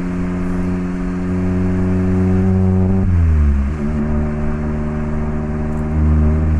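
Exhaust note of a Mazda MX-5 ND's 1.5-litre four-cylinder through an HKS Legamax Sports aftermarket exhaust, heard while driving. The engine holds a steady pitch, then drops in revs over about a second as at a gear change, and settles lower. It gets louder again as the throttle opens near the end.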